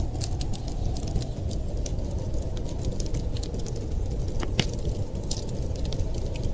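Wood fire crackling, with frequent small sharp pops over a steady low rumble and one louder snap about four and a half seconds in.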